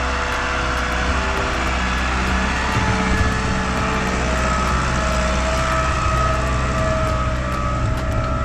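Same Silver 100.4 tractor's diesel engine running steadily under load, with a constant drone and a steady whine, while pulling a harrow.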